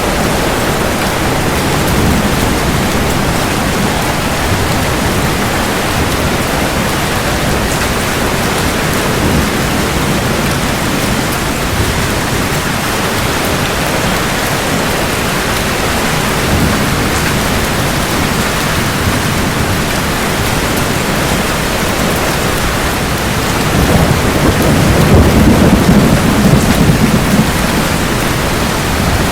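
Steady heavy rain with thunder rumbling; a louder low roll of thunder swells near the end and fades over a few seconds.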